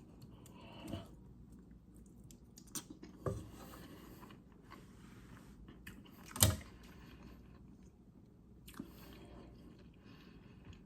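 A person chewing a mouthful of mac and cheese, soft mouth sounds with a few short clicks or knocks, the loudest about six and a half seconds in.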